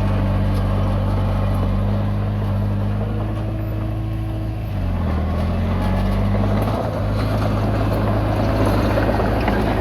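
Komatsu D20P bulldozer's diesel engine running steadily under work. About five seconds in, the engine note dips briefly and recovers, and a rougher, noisier sound builds near the end.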